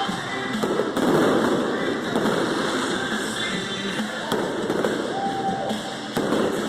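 Fireworks bursting and crackling, with several sharp bangs over a dense, continuous crackle, and music from stadium loudspeakers underneath.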